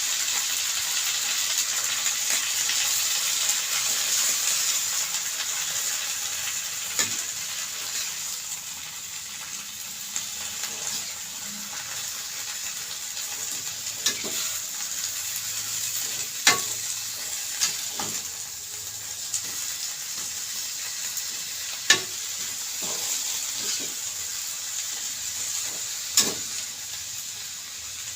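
Food sizzling as it is stir-fried in a pan: a steady frying hiss, with a spatula knocking against the pan now and then, about half a dozen times.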